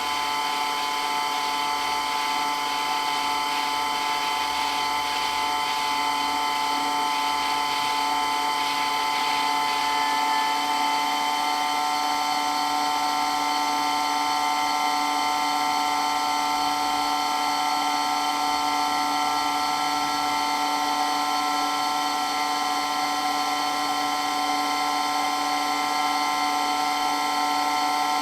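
Water pump running with a steady, loud whine, several even tones held without change.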